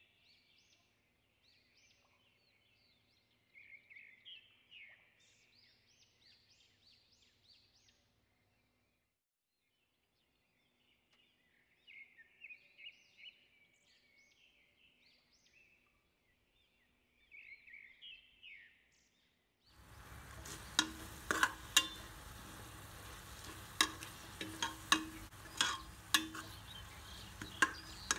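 Faint bird chirps at first; about two-thirds of the way through, oil and spiced onion-tomato masala start sizzling in an aluminium pressure cooker, with a steel spoon scraping and clinking against the pot as it is stirred.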